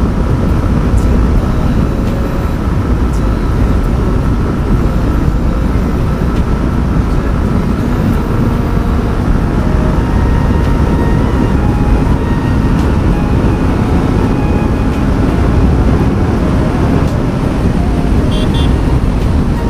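Yamaha MT-15's single-cylinder engine running steadily while riding, under a loud, even wind rumble on the microphone.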